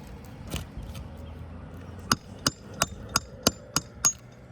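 Hammer striking at a roofing nail in the hip shingles: one knock, then a run of about seven quick, sharp strikes, roughly three a second.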